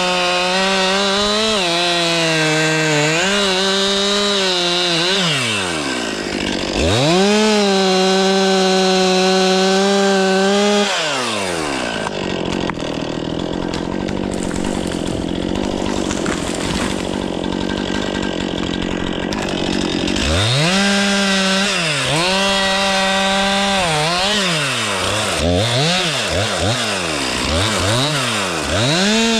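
Stihl 500i two-stroke chainsaw running at high revs, its pitch wavering as it works through wood. It drops back to idle about eleven seconds in and stays there for roughly nine seconds. It then revs up again, with several quick up-and-down blips of the throttle near the end.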